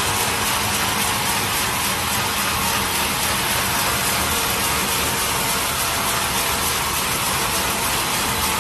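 Sawmill saw running with a steady, even, hissing noise that holds unchanged throughout.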